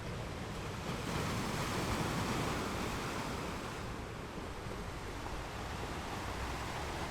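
Ocean waves breaking and washing up the shore: one wave swells in about a second in and eases off by about four seconds, over a steady low rumble of surf.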